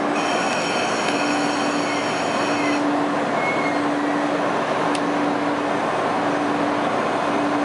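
Electric multiple-unit commuter train running along the platform track: a steady rush of wheel and rail noise, with a low tone repeatedly switching on and off about every second and a half.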